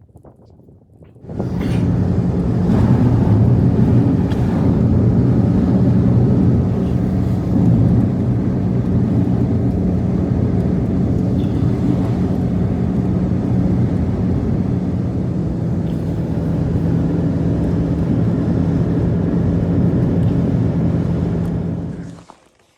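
A motor running steadily with a low, even hum. It starts abruptly about a second in and cuts off suddenly near the end.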